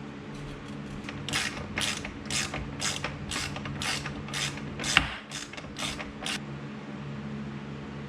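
A ratcheting mechanism worked in about a dozen short rasping strokes, roughly two a second, with one sharper hit near the end, over a steady low hum.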